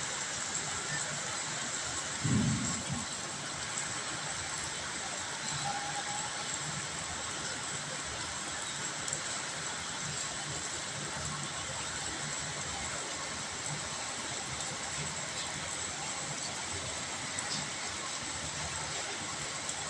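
Heavy rain falling, a steady even hiss. A brief low thump about two seconds in.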